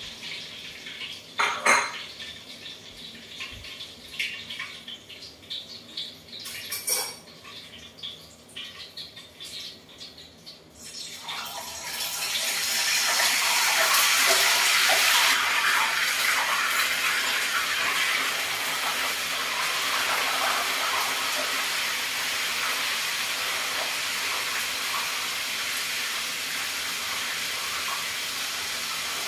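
Kitchen utensils and dishes clattering and knocking, then about eleven seconds in, prawns frying in hot oil begin to sizzle. The sizzle is loudest at first, then settles to a steady frying hiss.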